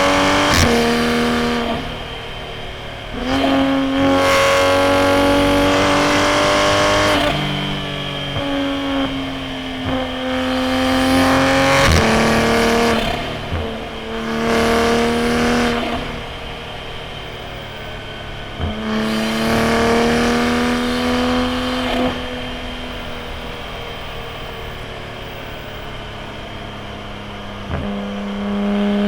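A90 Toyota Supra's B58 turbocharged inline-six through a straight-piped titanium single-exit exhaust, accelerating hard in repeated pulls: the pitch climbs, breaks sharply at each shift or lift, and falls away, with a longer stretch of steadier, quieter running near the end before it builds again.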